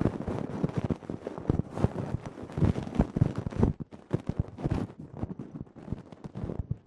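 Close-miked ear-cleaning ASMR: an ear pick scratching and rubbing inside an ear, with dense, irregular crackling and scratching that thins out briefly near the middle and again near the end.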